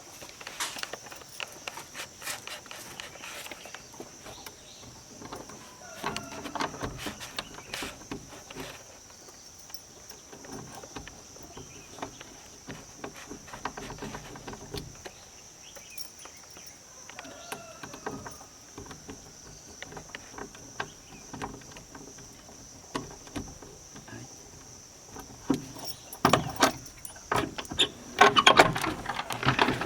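Irregular knocks, clicks and rustles of objects being handled and opened, loudest in a dense flurry near the end. Under them runs a steady high-pitched hiss or drone, with faint voices here and there.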